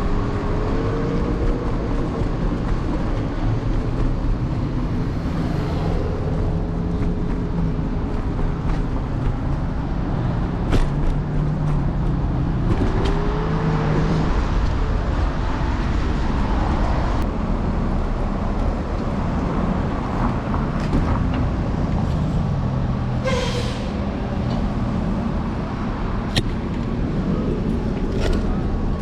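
Steady city street traffic heard from a moving electric scooter: vehicle engines and road noise, with a few clicks and a short hiss about three-quarters of the way through.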